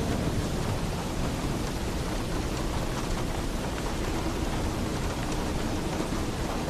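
Heavy rain falling steadily on a roof: an even hiss, with a low rumble underneath.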